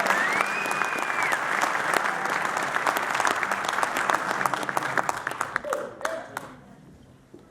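Audience applauding, with a short whistle near the start. The clapping dies away over the last couple of seconds.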